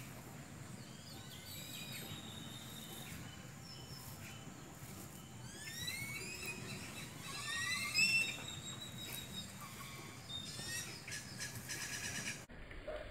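Birds calling: many quick rising chirps in runs, busiest in the middle and loudest about eight seconds in, over a low steady background hush.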